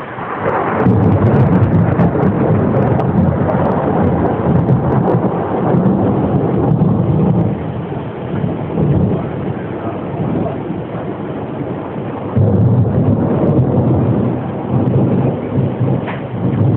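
Thunder rumbling heavily over steady rain: a long peal starts about a second in and eases off after several seconds, then a second rumble comes near the end.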